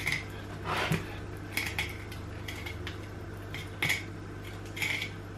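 Filleting knife slicing along a kahawai on a wooden cutting board: short scraping strokes about once a second, over a steady low hum.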